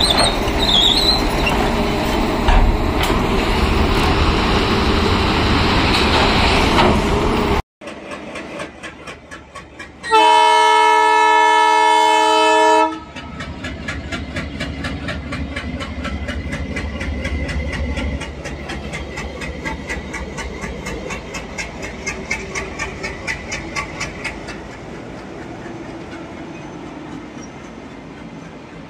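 Excavator working under load for the first seven seconds or so, cut off abruptly. Then a locomotive horn sounds for about three seconds as a train passes, its wheels clattering rhythmically over the rail joints and fading away near the end.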